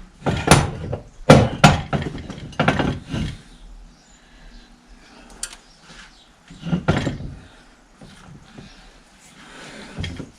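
Several sharp knocks and clunks of tools and metal parts as a part is forced into place on a tractor, most of them in the first three seconds and one more about seven seconds in.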